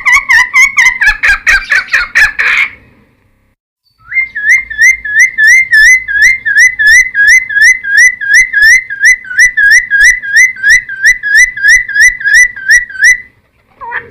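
Cucak timor singing loud, fast runs of repeated whistled notes. A quick chattering run stops about three seconds in. After a second's silence, a long steady series of identical upslurred notes follows, about three a second, and stops shortly before the end.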